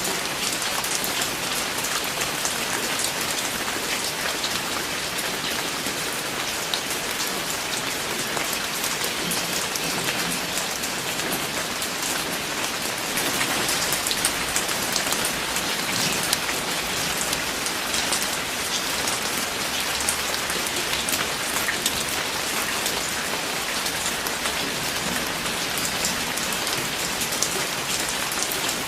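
Steady rain falling, with many separate drops pattering on a hard surface.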